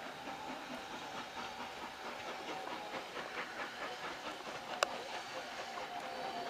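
Passenger coaches of a departing steam-hauled train clicking and clattering over rail joints and points, with a thin steady tone and one sharp click just under five seconds in.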